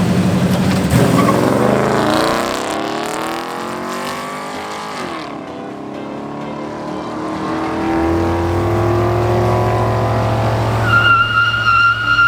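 A car engine revving hard as the car pulls away, its note climbing, dropping about five seconds in, then climbing again. Near the end a steady high tire squeal sets in.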